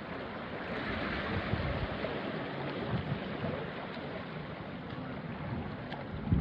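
Small waves washing onto a rocky shore, a steady wash of water that swells and falls back, with some low rumble of breeze on the microphone.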